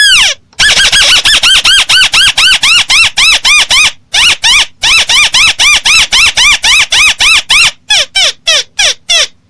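Loud lure recording of a tikusan (crake) call: a rapid run of arched notes, each rising then falling in pitch, about five a second. The run breaks off briefly about four seconds in, then resumes, and the notes spread apart before stopping near the end.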